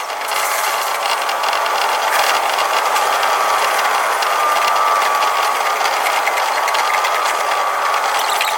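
Electric commuter train running noise heard from the cab and sped up to double speed: a rapid stream of clicks and rattles over the rails, with a thin steady whine that drifts slightly lower.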